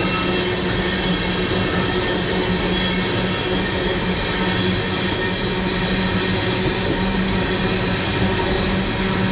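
Freight train rolling past at close range: a steady, loud rumble of wheels on rail with several constant ringing tones held over it.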